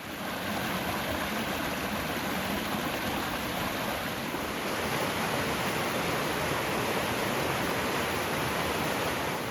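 Rushing water of a mountain stream, a steady, even rush that does not let up.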